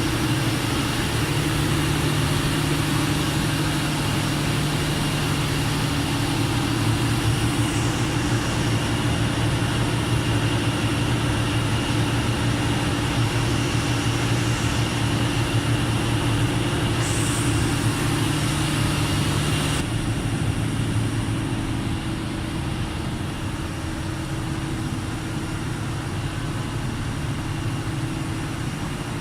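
Mitsubishi 600 kW diesel generator running steadily at constant speed, a loud even hum. About twenty seconds in, the sound becomes slightly quieter and duller.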